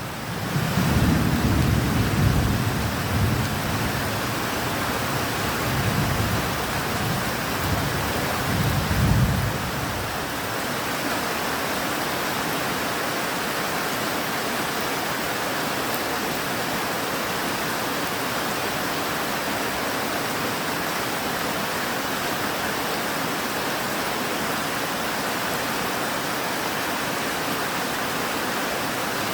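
Steady heavy rain with thunder rumbling in rolling swells for about the first ten seconds, then fading out and leaving the even hiss of rain alone.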